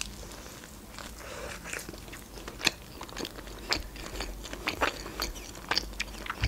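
Biting into and chewing a döner in bread: crisp bread crunching, with many short wet clicks and crackles from the mouth.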